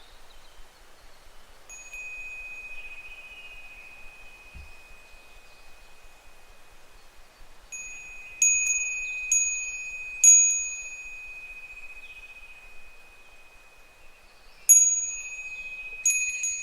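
Japanese wind bell (fūrin) ringing in the breeze: a soft lingering ring through the first half, then three clear strikes of the clapper about halfway through and two more near the end, each ringing on and fading.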